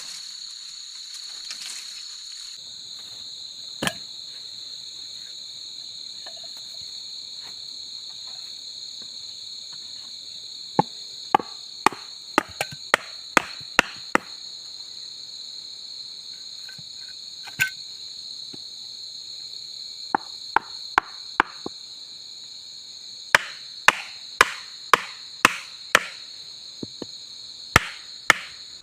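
Steady high-pitched chorus of crickets and other night insects. From about eleven seconds in, runs of sharp chopping strikes on wood, four to eight blows at a time about half a second apart, louder than the insects.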